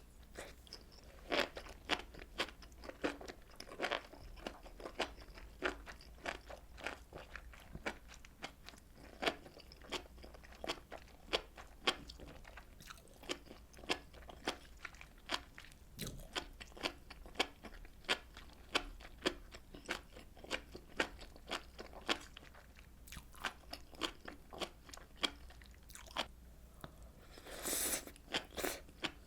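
A person chewing fish cake soup (eomuk-tang) close to the microphone: a steady run of wet clicks and smacks several times a second, with a short louder rush of noise near the end.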